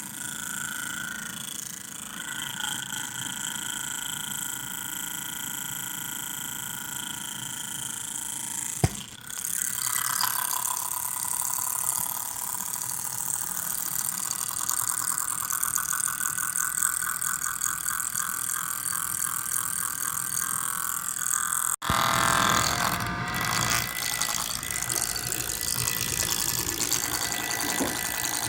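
MSI GS30 laptop's cooling fan (Aavid PAAD07010SH) running with a steady whine and a rattling noise, the sign of a faulty fan. A sharp click comes about 9 s in, and the sound breaks off abruptly and resumes about 22 s in.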